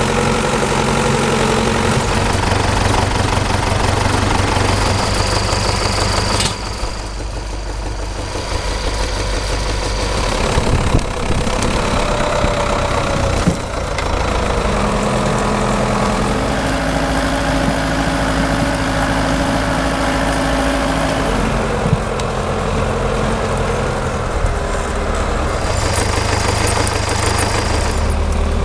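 Tractor diesel engine running steadily, its note changing abruptly several times as the engine speed and sound shift between clips.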